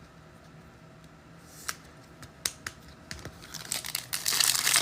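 A few light clicks, then, from about three and a half seconds in, the crinkling and tearing of a trading-card pack wrapper being ripped open, growing louder toward the end.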